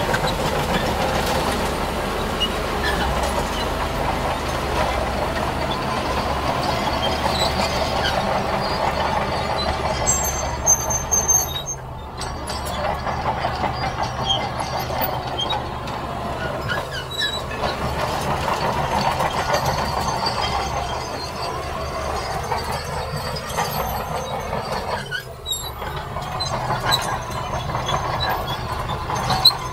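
Heavy diesel earthmoving machinery working in sand: engines running steadily under load, with scattered short knocks and two brief dips in level, about 12 and 25 seconds in.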